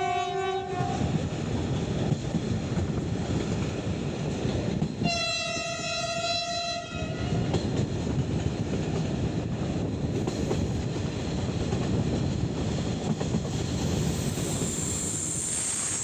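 Diesel-hauled passenger train running, heard from an open carriage window, with a steady rumble and wheel clatter. The locomotive horn sounds a lower blast that ends about a second in, then a higher blast about five seconds in that lasts some two seconds. Near the end a faint high-pitched squeal sets in.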